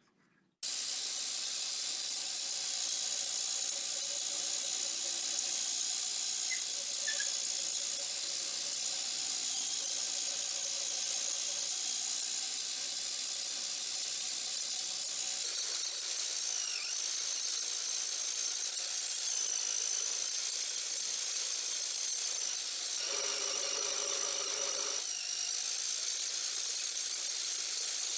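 A steady high-pitched hiss from a small running machine, with a thin high whine joining about halfway through and a lower hum for about two seconds near the end.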